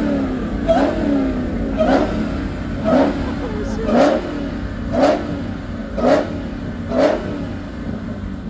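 Car engine revved in short throttle blips, seven in a row about one a second, each a quick rise in pitch over a steady low rumble.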